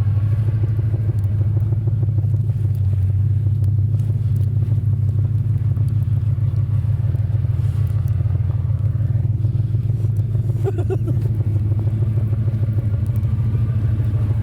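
Suburban truck's swapped engine running steadily at a low, even pitch while the truck creeps along in four-wheel-drive low.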